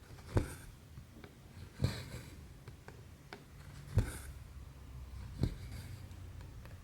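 Hand cross-stitching: a needle pops through the stamped fabric four times, about every one and a half seconds, and each pop is followed by a short swish of thread drawn through, with fainter clicks between.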